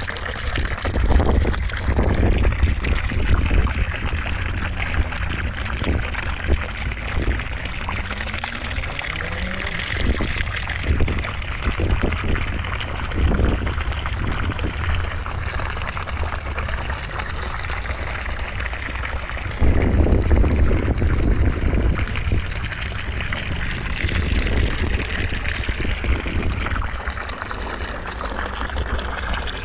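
Steady white noise with a rushing, water-like sound. About twenty seconds in it briefly gets a little louder in the low end.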